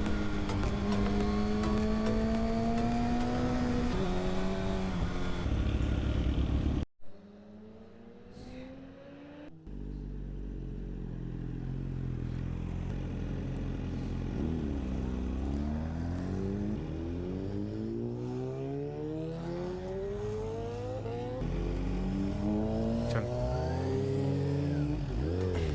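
Kawasaki Ninja ZX-6R's inline-four engine running at steady revs. It cuts off suddenly about seven seconds in, and a few seconds later revs up again and again through several gear changes under hard acceleration.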